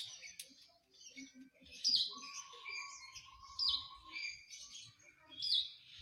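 Songbirds singing: short, sharp, high chirps every two seconds or so, with a longer, lower steady note starting about two seconds in.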